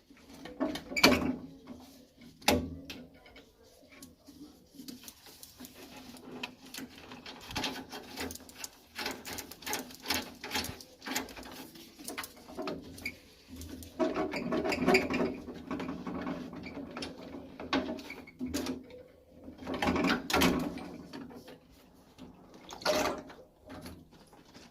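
Irregular clicks, knocks and rattles of hand tools and metal parts being handled while a boiler is worked on. The sharpest knocks come about a second in and at two and a half seconds, with busier clattering later.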